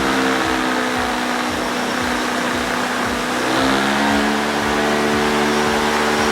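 DJI Phantom 4 Pro quadcopter's propellers and motors droning loudly as it holds position against a blast of wind. Their pitch shifts and steps up about three and a half seconds in as the motors work to correct. Underneath runs the steady sound of a small gasoline engine driving the wind.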